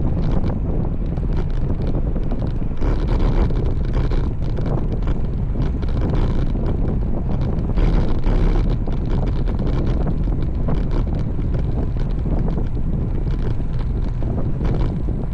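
Wind buffeting the microphone of a camera riding along on a road bike: a loud, steady rumble with small gusty swells.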